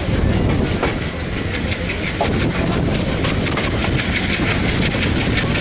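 Train running on the rails, its wheels clattering over the rail joints in a steady run of clicks over a continuous rumble.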